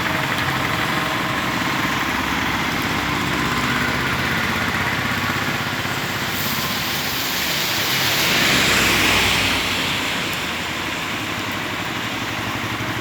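Heavy rain as a steady hiss, with a low engine hum beneath it. About eight seconds in the hiss swells for a second or two.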